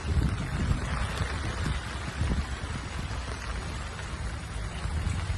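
Storm wind buffeting the microphone: irregular low rumbling gusts over a steady hiss.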